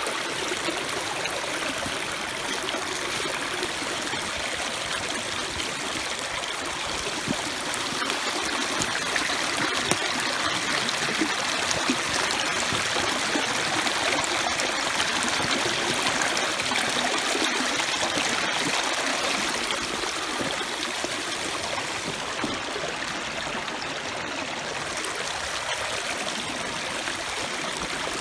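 Stream running: a steady rush of flowing water.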